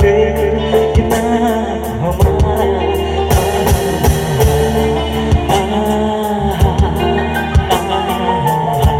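Live band music: a sustained melody over a steady drum beat, with no clear lyrics.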